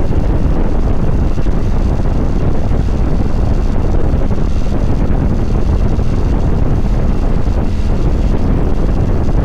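Steady wind noise on the microphone of a motorcycle under way, with the Kawasaki Vulcan 900 Classic LT's V-twin engine running underneath.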